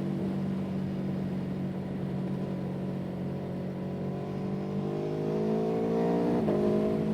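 A motor vehicle engine running steadily; about five seconds in its pitch climbs as it revs up, then drops back sharply about a second and a half later.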